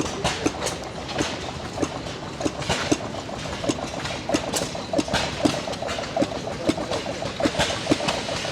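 Small antique gas engines running, with an uneven series of sharp exhaust pops, roughly one or two a second, over a steady mechanical clatter.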